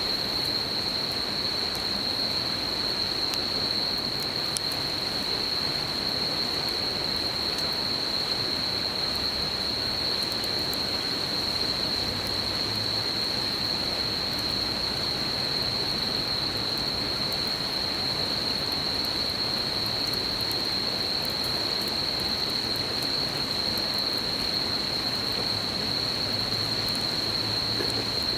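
Insects trilling in one steady, unbroken high note over the constant rush of a river, with a few faint crackles from a campfire.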